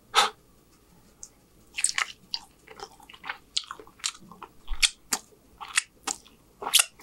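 A bite of food just after the start, then chewing close to the microphone: irregular wet mouth clicks and smacks.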